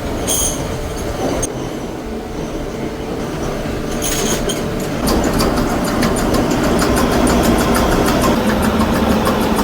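Machinery running with a steady mechanical noise. It grows louder about five seconds in, with fast, even ticking over it.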